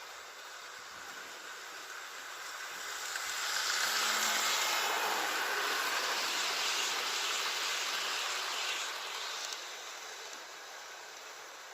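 Double-headed Hornby model train, two locomotives hauling nine coaches, running along the track with a steady rolling rattle of wheels on rails. It grows louder a few seconds in as the train passes close, holds, then fades away.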